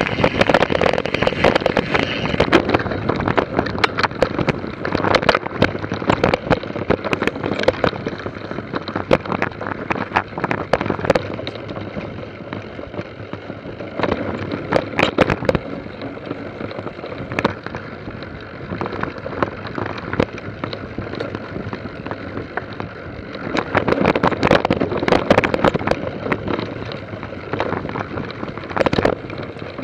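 Mountain bike clattering over a rough trail: dense irregular rattles and knocks over a steady noise, louder for a few seconds near the start and again about two-thirds of the way through.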